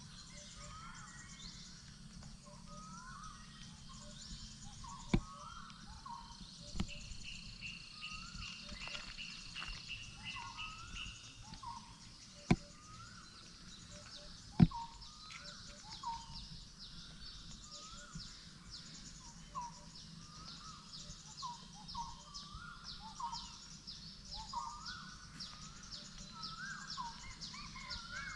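Forest ambience: birds calling over and over in short rising notes about once a second, with higher chirping trains above them. A few sharp clicks stand out, the loudest about halfway through.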